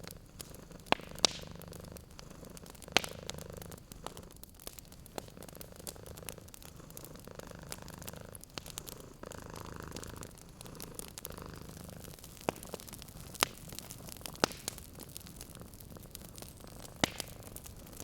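Domestic cat purring steadily in low pulses, over the crackle of a wood fire with a handful of sharp pops.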